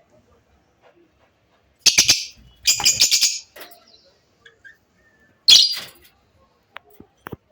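African grey parrot giving three loud, harsh squawks: one about two seconds in, a longer rattling one just after, and a third about five and a half seconds in.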